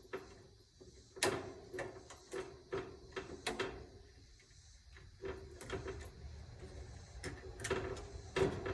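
Scattered clicks and knocks of tools and parts being handled while a washing machine motor is taken apart. The sharpest come about a second in, a few seconds in, and twice near the end.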